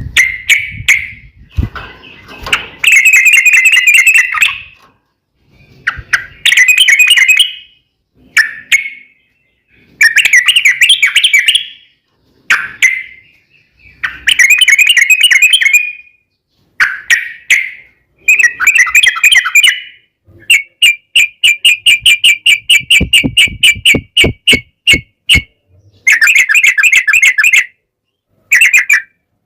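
Yellow-vented bulbul (trucukan) singing loud, bubbly song phrases of a second or two each, with short gaps between them. Partway through there is a fast run of clipped, repeated notes.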